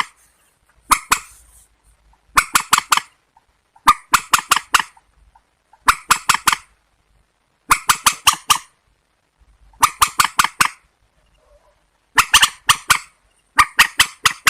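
Recorded calls of a rail, a swamphen or waterhen type water bird: bursts of three to five short, sharp notes, repeating evenly about every two seconds as a looped playback.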